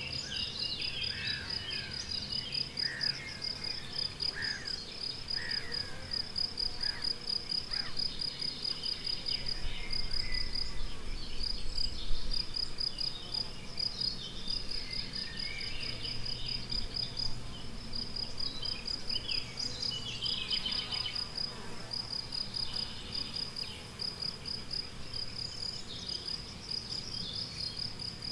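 A cricket chirping steadily on one high pitch, several pulses a second without a break, with songbirds singing over it in short rising and falling phrases. About twelve seconds in there is a single short knock.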